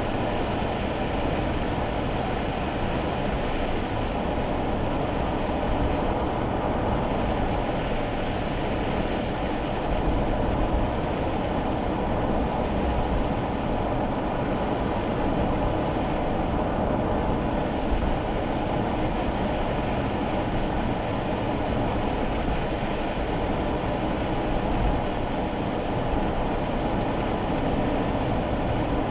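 Steady road noise inside a kei car's cabin while driving on rain-wet roads: tyre rumble and hiss with the small engine running underneath, unchanging throughout.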